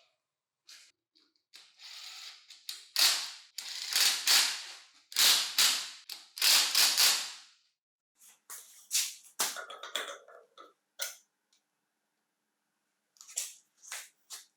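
Hand work on metal parts: a run of short scraping strokes, then scattered sharp clicks and light knocks.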